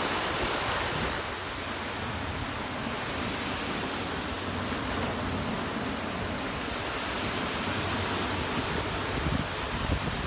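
Ocean surf washing onto the beach, a steady rush that eases slightly about a second in, with a few brief bumps near the end.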